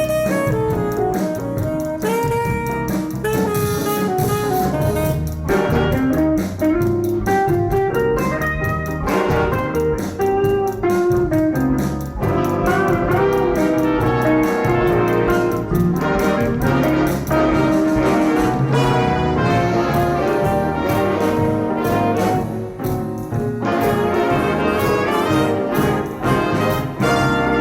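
School jazz band playing, with the brass section (trumpets and trombones) carrying the melody.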